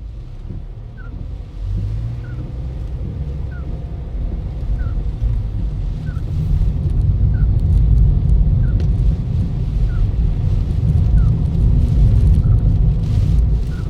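Low rumble of a Toyota Ractis on the move, growing louder over the first few seconds and then holding. A short high chirp repeats evenly about every 1.2 seconds.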